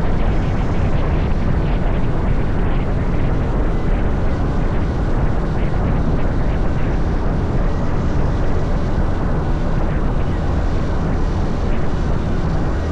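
Honda CT125 Hunter Cub's single-cylinder four-stroke engine running at a steady cruising speed, mixed with wind rush on the microphone.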